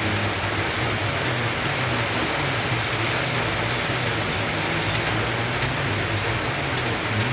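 Heavy tropical downpour: dense, steady rain hissing on surfaces. A low hum comes and goes underneath.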